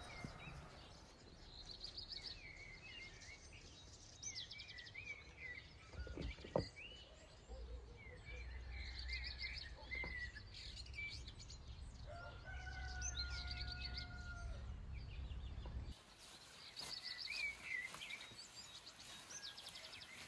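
Songbirds chirping and trilling again and again. There is a single sharp knock about six and a half seconds in, and a low rumble with a long held note through the middle stretch.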